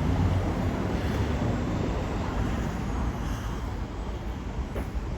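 Steady low rumble of a moving vehicle, with a few faint clicks over it.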